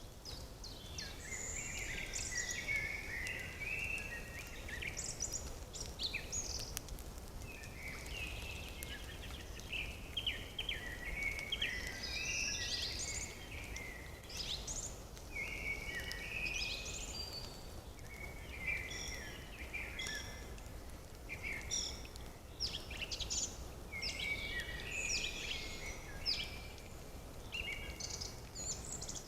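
Several birds chirping and singing without pause, short calls overlapping one another, over a steady low rumble of background noise.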